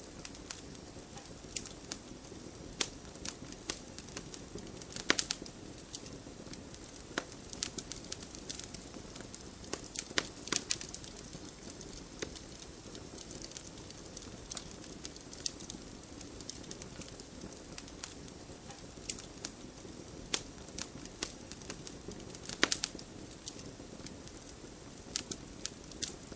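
Wood fire in a fireplace crackling: a steady low hiss of burning under irregular sharp pops and snaps, with a few louder pops about five, ten and twenty-two seconds in.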